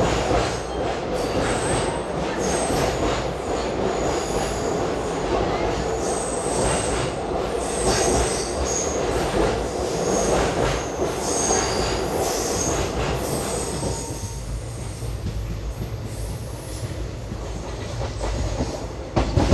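Passenger train running, heard from on board: steady rumble of the coaches over the track, with short, high wheel squeals for the first dozen seconds. From about 14 seconds in it settles to a quieter, lower rumble.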